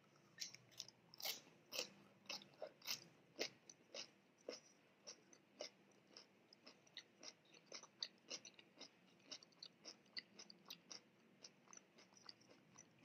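Close-miked chewing of a mouthful of raw red cabbage: crisp crunches, about two or three a second, louder in the first few seconds and then fading to smaller, softer crackles as the cabbage breaks down.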